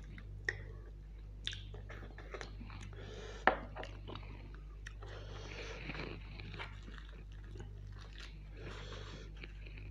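Close-up chewing and biting of curried mutton off the bone: wet mouth sounds and scattered small clicks, with one sharp crunch about three and a half seconds in, the loudest sound.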